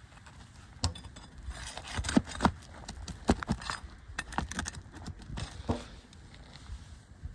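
Asphalt roof shingles being worked loose: a string of sharp clicks, cracks and scrapes as brittle shingles and their sealed tar strips are pried apart and nails are worked free. The sounds come irregularly, loudest a couple of seconds in.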